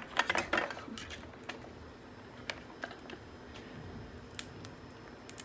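Light clicks and taps, a quick cluster in the first second, then scattered single clicks.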